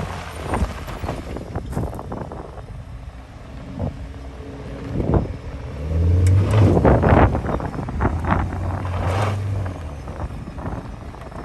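Ferrari engine running, rising in pitch and loudest about six seconds in, then holding a steady low note until near the ten-second mark, with scattered knocks throughout.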